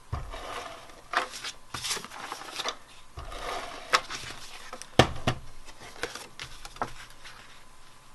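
Cardstock and paper being handled on a craft table: rustling and sliding with several light taps and clicks, the sharpest about five seconds in.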